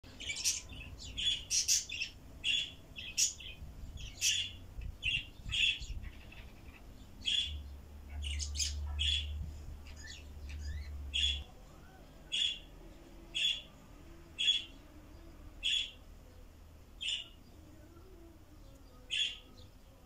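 Small pet birds chirping: short, sharp calls, in quick clusters at first and then thinning out to about one call a second.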